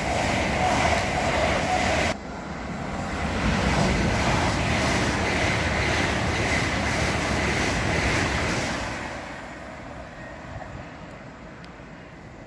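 Train passing through a station at speed, a steady rushing rumble. The sound breaks off abruptly about two seconds in, builds again, then fades away from about nine seconds in.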